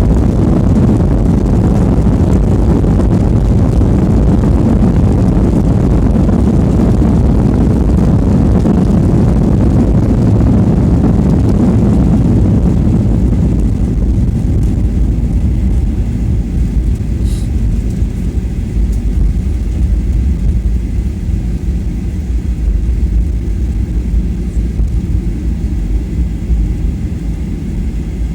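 Airliner cabin noise from a passenger seat during landing: a loud, steady low rumble of engines and airflow that eases off and thins out about halfway through.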